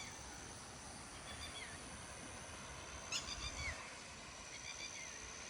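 Birds chirping in three short bursts of quick, gliding notes, faint against a steady high-pitched hum and rural morning ambience.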